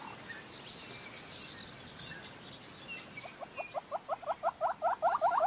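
Wild animal calls in the African bush: faint, high, scattered bird chirps, then from about three seconds in a rapid, even series of short rising call notes, around six a second, growing louder.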